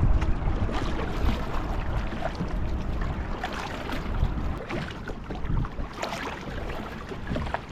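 Kayak paddle strokes dipping and splashing in slow river water, with wind rumbling on the microphone.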